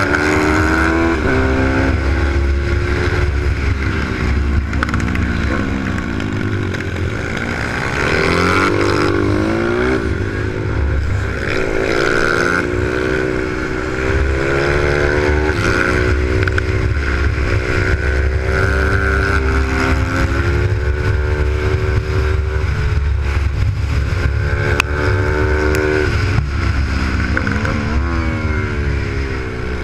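Supermoto pit bike's Z155 single-cylinder four-stroke engine heard from onboard. It revs up hard through the gears, then drops back off the throttle into corners, many times over.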